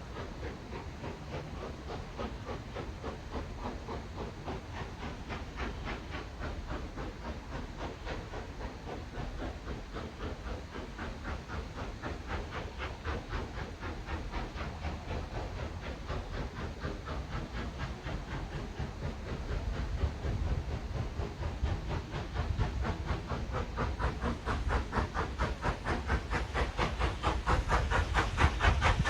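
Steam train working with a rapid, regular beat and a steady hiss, growing louder as it approaches toward the end.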